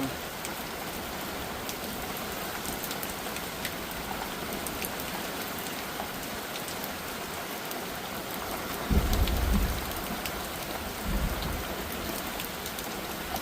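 Heavy monsoon rain pouring down: a steady hiss with scattered drop clicks. Two short low rumbles come through about nine and eleven seconds in.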